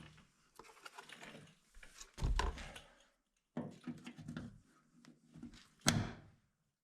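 Plastic car body trim being handled and pressed into place: scraping and rattling, a dull knock about two seconds in and a sharp click near the end.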